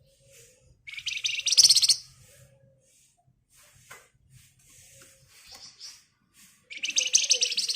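Songbird known to Indonesian bird keepers as flamboyan giving two fast, dense rattling trills ('ngebren'), each about a second long: one about a second in, the other near the end. Faint short calls come between them.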